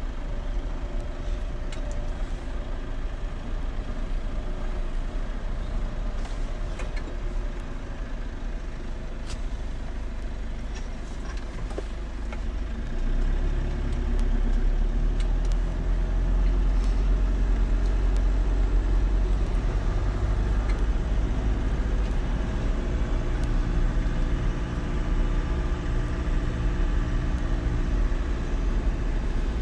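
A motor vehicle's engine running steadily with a low rumble, growing louder about 13 seconds in.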